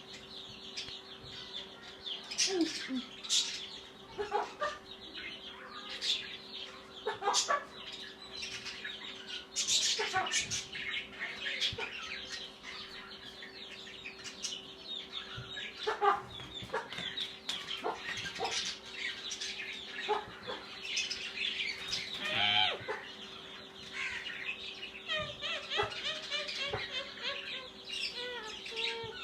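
Rose-ringed parakeets calling: many short squawks and chatter, one after another and sometimes overlapping, with a faint steady hum beneath.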